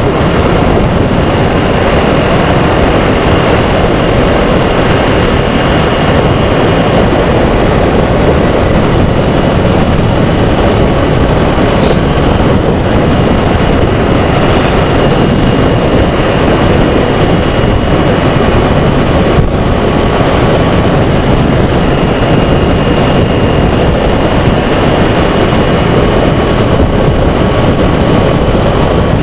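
Kawasaki Z400 parallel-twin with a Toro aftermarket exhaust, dB killer fitted, running steadily at cruising speed, its engine note mixed with heavy road and air noise.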